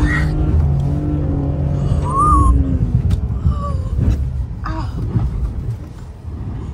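BMW E46 328 coupe's straight-six engine, heard from inside the cabin. It holds steady revs at first, the pitch drops about two seconds in, and it grows quieter toward the end.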